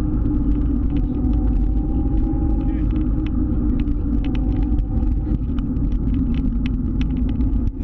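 Motor scooter riding at a steady speed, its engine running with a steady low rumble and scattered light ticks.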